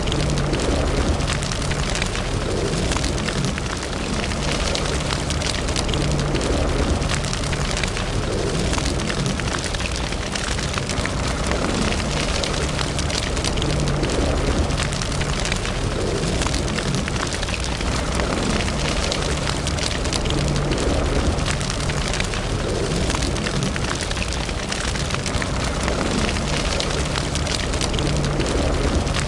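Wood fire burning in a fireplace: a steady low rumble of flames with a constant scatter of small crackles and pops.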